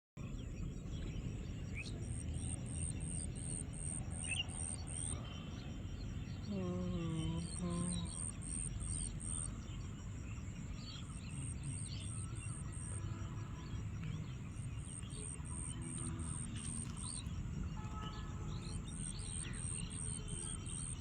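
Insect chirping outdoors: very high-pitched, evenly pulsed trains of about four chirps a second, in bouts of about three seconds with short pauses between. Scattered bird chirps and a steady low rumble lie under it, and a brief low call sounds twice about seven seconds in.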